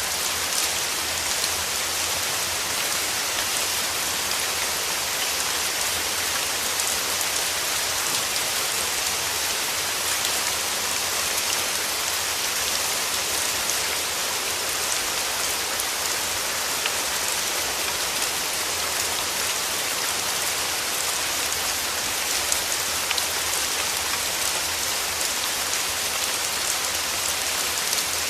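Steady rain falling, a constant hiss with fine patter of drops on surfaces.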